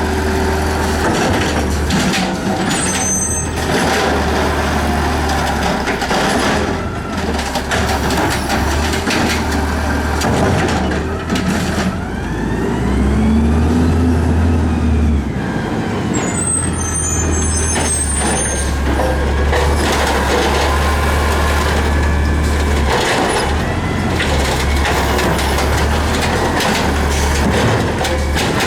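Garbage truck engine running, revving up and down about twelve seconds in, with knocks and short high squeals. An air brake hisses.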